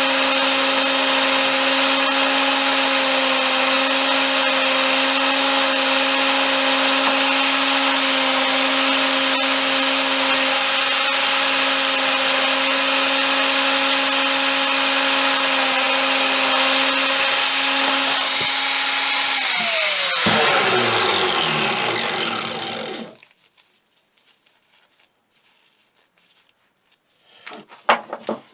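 A handheld electric power tool running steadily with a loud hiss and a steady motor hum. About 20 seconds in it is switched off and its pitch falls as it spins down to a stop. A few light knocks come near the end.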